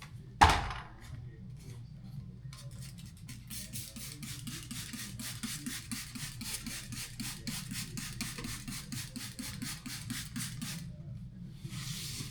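A sharp knock, then fast back-and-forth scrubbing strokes, about five a second for some eight seconds, then a short hiss near the end: a brush or pad scrubbing parts of an air-conditioning unit during cleaning.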